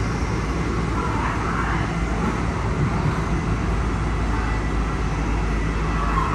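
Inside a K set double-deck electric train running at speed: a steady low rumble of wheels on rail with a constant low hum.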